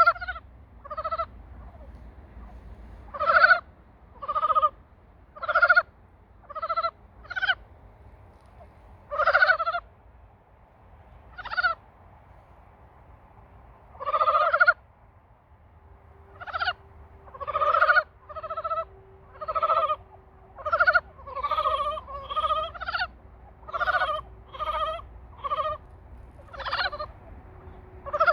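Frogs giving mating calls: short pulsed croaks, each under a second, repeated at irregular intervals. After about 16 seconds the calls come thicker, with several frogs overlapping.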